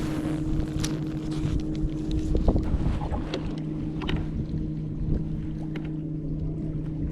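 Steady motor hum over a low rumble, with scattered light clicks and knocks; the loudest knock comes about two and a half seconds in.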